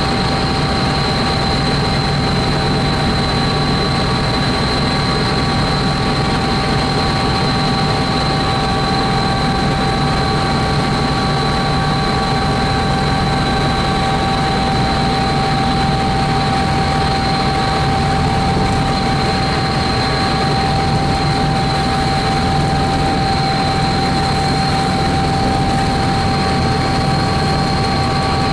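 Helicopter in flight: steady engine and rotor noise with a constant high whine.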